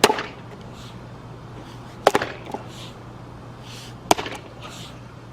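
Axe blows into a log being split for firewood: three sharp strikes about two seconds apart.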